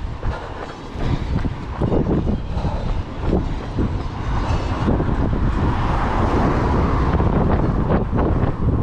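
Strong gusty wind buffeting the microphone, a heavy rumble that rises and falls with the gusts.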